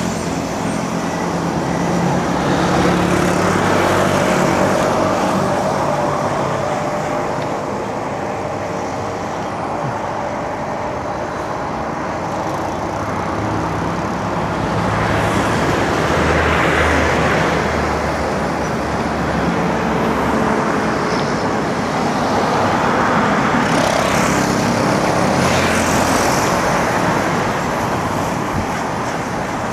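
Road traffic: cars and other motor vehicles running close by, with several passing in turn, each swelling and fading.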